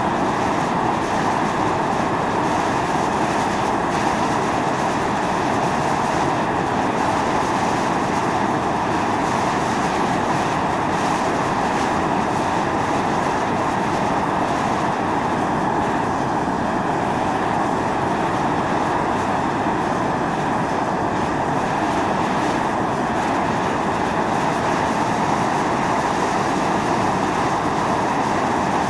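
Volcanic fumarole at Atosanupuri (Mt. Io) venting steam and gas with a steady, even hiss that never lets up.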